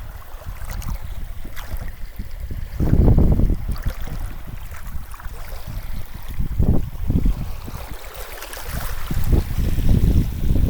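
Wind buffeting the microphone in gusts, with the wash of the sea beneath. The strongest gusts come about three seconds in, near seven seconds, and near the end.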